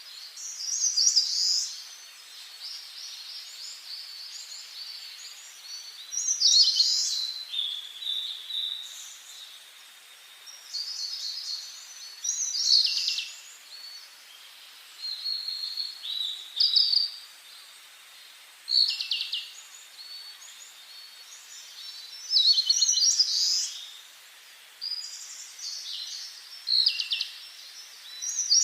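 Songbirds singing in short, bright phrases of chirps and trills, a new phrase every few seconds, over a faint steady hiss.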